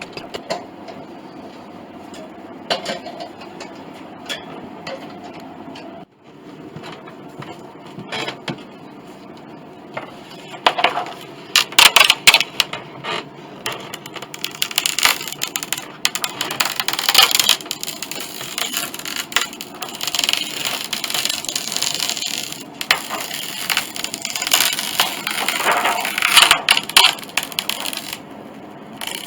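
Hand work on the wood of a piano soundboard: irregular scraping and rubbing strokes with sharp clicks, getting busier and louder after about ten seconds.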